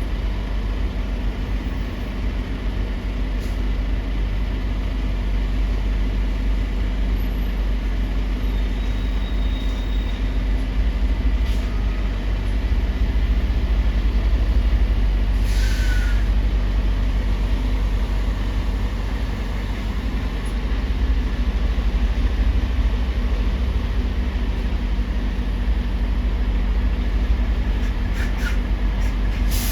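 Steady low rumble of heavy diesel engines with a constant hum, and one short hiss about halfway through.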